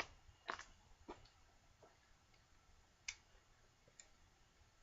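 A few light, separate clicks and knocks of a small metal block plane being handled and set down on a workbench, against near silence.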